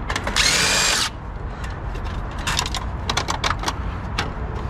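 A cordless drill-driver whirs in one short burst of under a second, backing out a screw holding the printer's motor. After that come a series of small, sharp clicks and taps as the metal parts are handled.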